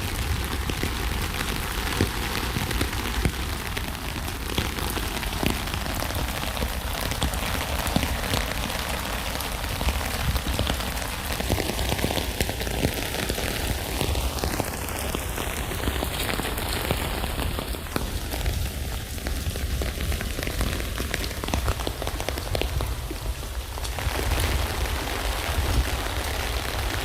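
Steady rain falling on a tent, a dense continuous patter of many small drop ticks.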